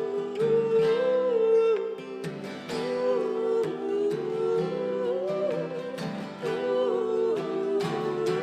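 Live acoustic song: long, sustained sung notes that bend in pitch, over strummed acoustic guitar.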